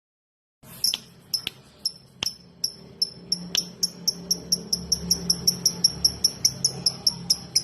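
Lovebird 'ngetik': a rapid series of short, high ticking chirps that starts suddenly, then speeds up and grows louder to about four or five a second, with a few sharp clicks among the first chirps.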